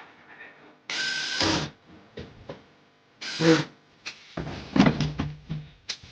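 Power screwdriver running in short bursts of under a second, driving screws while a washing machine is reassembled, followed by knocks and rattles of panels and parts being handled.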